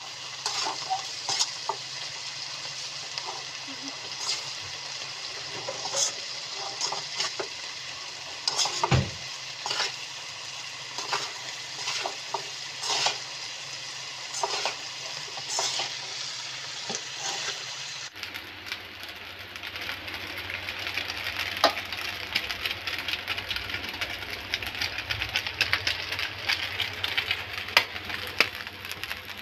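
Pork and green beans stir-frying in a pan: a steady sizzle broken by frequent clicks and scrapes of stirring. About two-thirds of the way through it changes abruptly to a denser, crackling sizzle of another pan frying.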